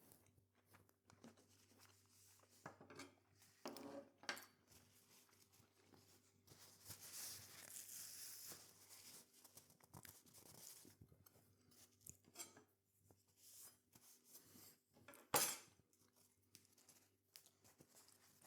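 A person quietly chewing a mouthful of burger, with faint mouth sounds and scattered small clicks and knocks, and one sharper click about fifteen seconds in.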